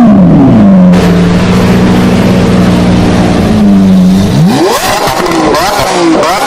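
Lamborghini engine revving. The revs fall away and hold steady for about three seconds, then rise and fall in a sharp throttle blip, with another quick blip near the end.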